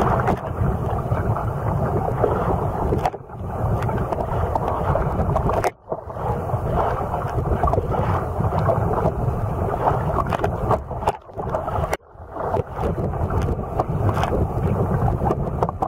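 Loud wind buffeting the microphone at sea, a dense rumble that dips out briefly several times.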